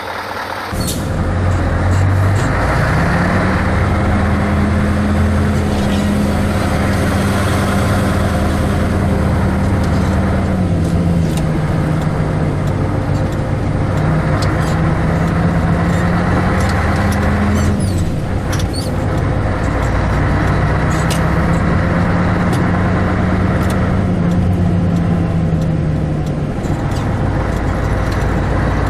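Scania 143's 14-litre V8 diesel running loud under load, its revs climbing and falling back several times.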